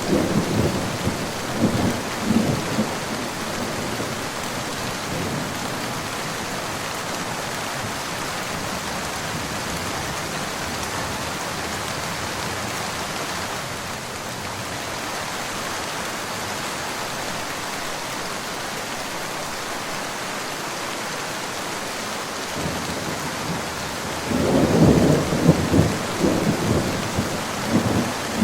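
Steady rain falling, with thunder rumbling at the start that dies away within a few seconds, and a new roll of thunder breaking in near the end.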